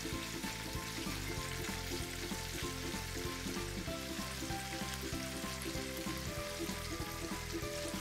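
Chicken kebab patties sizzling steadily in hot oil in a frying pan, a continuous crackling hiss. Soft background music plays underneath.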